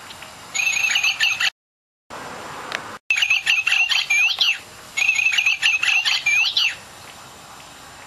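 Bird song from the caged bird: quick chirps and sweeping whistles in three bursts of nearly the same phrase, twice cut by brief gaps of total silence.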